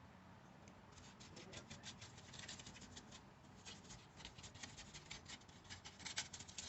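Faint, rapid scratching and small clicks, several a second, like small handwork on a hard surface.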